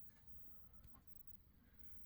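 Near silence: room tone with a couple of faint ticks.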